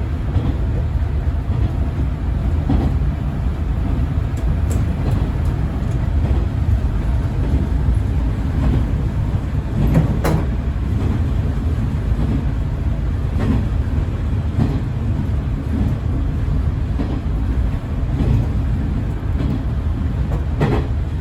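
Diesel railcar running at speed, heard from inside the cab: a steady low engine and rail rumble with irregular knocks from the wheels and track, the strongest about halfway through.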